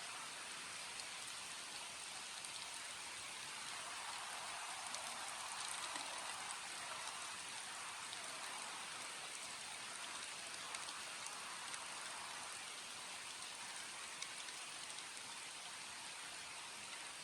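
Steady rain falling, a continuous hiss with individual drops ticking through it, swelling slightly a few seconds in before settling back.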